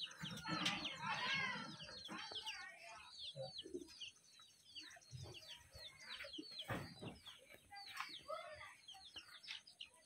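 Birds chirping: a steady stream of many short, falling chirps, busiest in the first second or so.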